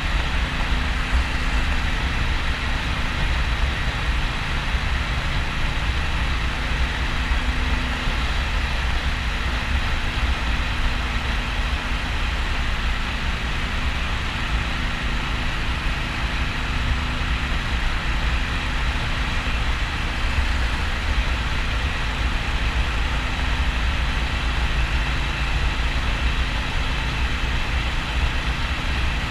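Harley-Davidson XL1200N Sportster's air-cooled V-twin running steadily at motorway cruising speed, a deep low rumble under a constant rush of wind and road noise.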